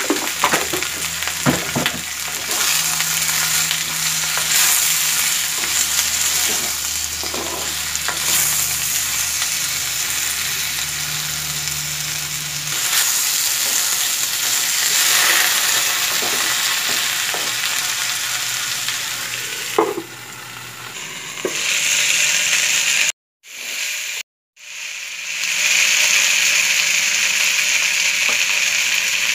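Chopped vegetables sizzling in hot oil in a wok while a wooden spatula stirs them, with scattered scraping knocks of the spatula on the pan. The sound cuts out twice briefly a few seconds before the end.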